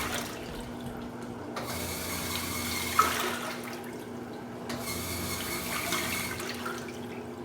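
Top-loading washing machine in its wash cycle, water swishing in the drum in spells as the agitator turns one way and then the other, over a steady motor hum. A single click comes about three seconds in.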